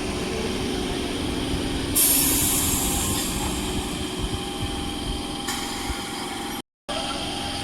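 Electric multiple unit (EMU) local train running through a sharp curve, a steady rumble of wheels on rail, with a sudden burst of hiss about two seconds in and a brief dropout of all sound near the end.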